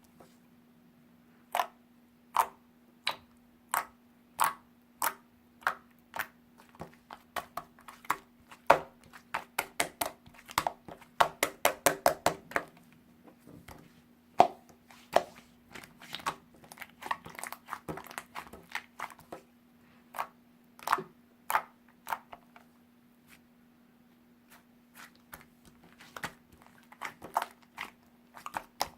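Irregular sharp clicks and taps of handling, some single and some in quick runs, over a faint steady hum.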